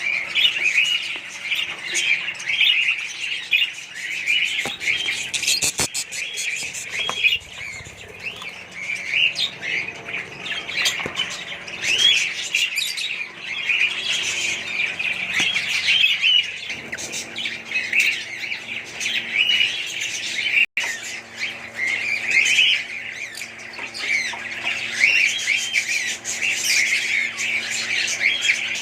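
Budgerigars chattering and squawking nonstop, many birds calling over one another, with a few scratchy clicks among the calls.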